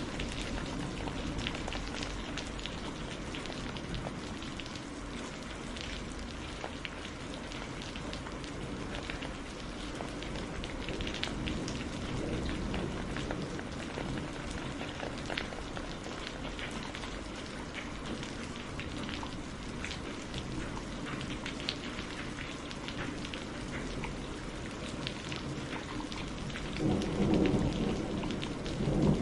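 Heavy rain falling steadily, with many individual drops audible. Thunder rumbles in low and louder near the end.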